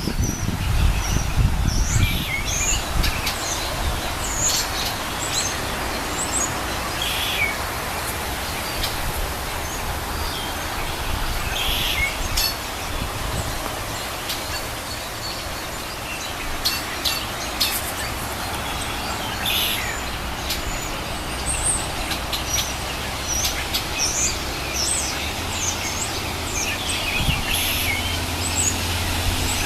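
A flock of American robins calling: many short, scattered high chirps and squeaks over a steady outdoor hiss, with a low rumble in the first couple of seconds.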